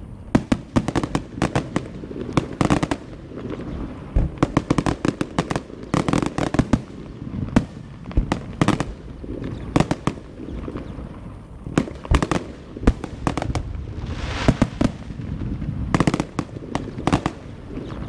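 Fireworks going off in rapid clusters of sharp bangs and crackles, with a short hissing rush about three-quarters of the way through.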